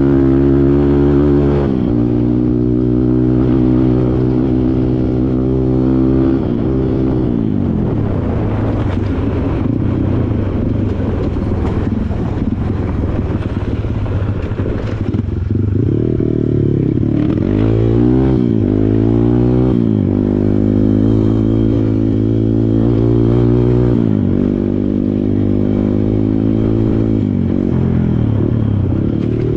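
Kawasaki KLX140 dirt bike's single-cylinder four-stroke engine running under load on a trail. The pitch holds steady for stretches, then drops and rises with throttle and gear changes, most busily about halfway through.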